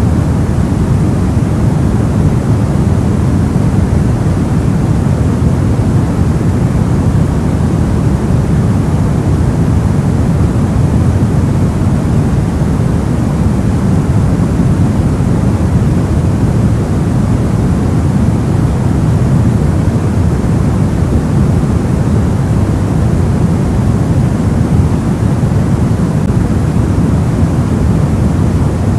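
Steady soft white noise, weighted toward the bass so it sounds like a deep, muffled rush with little hiss on top. It holds constant without any change.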